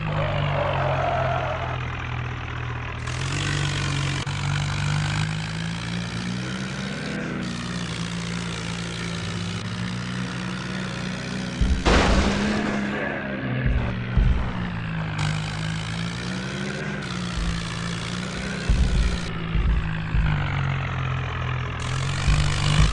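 Tractor engine running, its pitch rising and falling as the throttle is worked. There is a sharp crack about halfway through and several low thumps.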